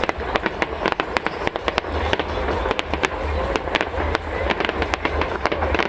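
Fireworks bursting in rapid, irregular succession: a dense run of sharp cracks and pops, many each second, over a steady low rumble.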